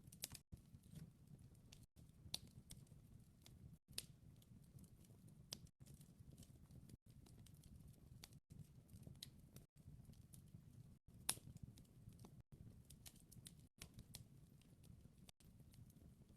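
Wood fire crackling faintly: irregular small snaps and pops over a soft low rumble, with one sharper pop about eleven seconds in.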